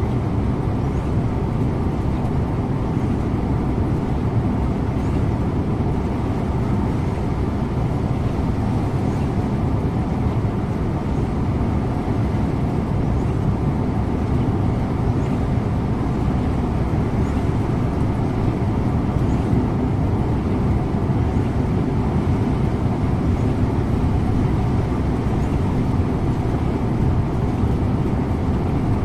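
Scania InterLink bus on the road, its engine and tyre noise making a steady, even rumble heard from the driver's seat.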